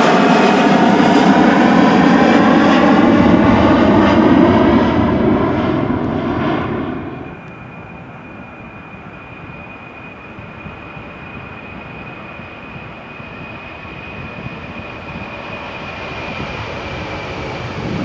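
Airbus A321 jet engines at take-off thrust, loud, their tones sliding down in pitch as the airliner passes and fades over about seven seconds. Then a Boeing 747-400's engines are heard from farther off, a quieter rumble with a steady high whine, building louder near the end as it gets going on its take-off.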